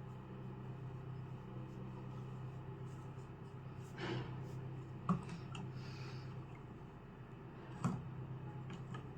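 Steady low hum with a few light taps and clicks, the two sharpest a little after five seconds in and near eight seconds in.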